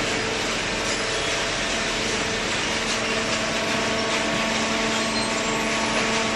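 Automatic hydraulic waste-paper baler running: a steady machine hum with several fixed tones over an even hiss.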